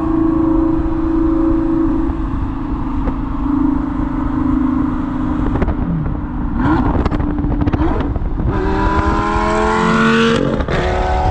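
Lamborghini Gallardo's V10 engine through an aftermarket exhaust: running steadily at first, then accelerating with a rising pitch in the last few seconds before cutting off suddenly.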